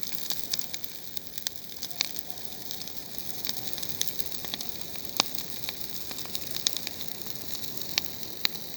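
Bonfire of thistles burning: a steady hiss with sharp, irregular crackles and pops.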